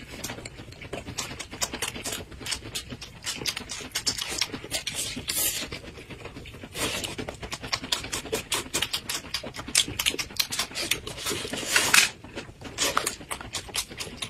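Close-miked chewing and lip smacking of two people eating vegetable-filled pancake wraps: a dense run of quick wet clicks, with a few louder breathy bursts.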